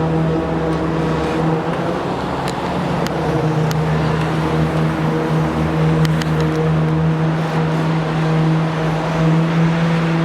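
A steady engine drone holding one pitch, over a rushing noise, with a few sharp clicks about two and a half to four seconds in and again around six seconds.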